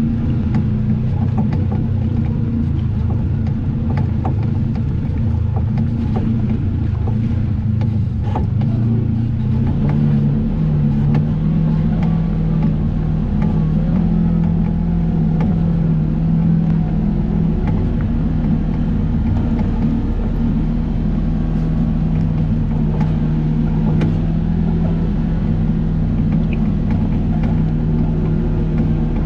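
Vehicle engine running steadily on the move, its note rising about ten seconds in and then holding, with small knocks and rattles over it.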